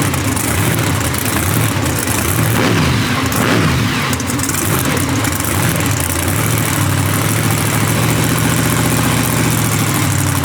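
A large vehicle engine running, its pitch shifting up and down for a couple of seconds before settling into a steady run. It cuts off suddenly at the end.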